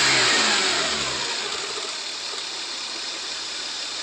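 Lexus IS300's 2JZ-GE inline-six, fitted with aftermarket headers and an Apexi exhaust, falling from a rev back down to idle over about the first second and a half. It then idles steadily and more quietly.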